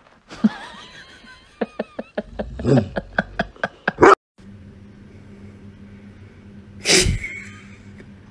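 A bulldog making a quick run of short, sharp vocal sounds, about four a second, the loudest about four seconds in. After a cut, one loud sudden burst comes about seven seconds in.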